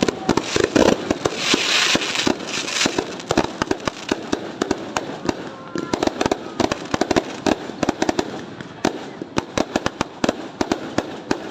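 New Year fireworks going off in a rapid, continuous barrage of bangs and crackles, several per second, with a stretch of hissing crackle about two seconds in.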